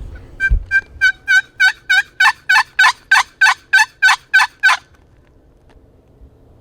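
A long run of turkey hen yelps: about fifteen evenly spaced, down-slurred yelps at roughly three a second that grow louder over the first second or two, then stop.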